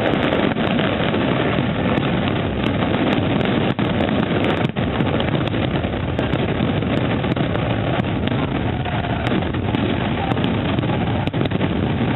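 Fireworks display in full barrage, many shells going off so close together that their bangs run into one continuous, steady rumble.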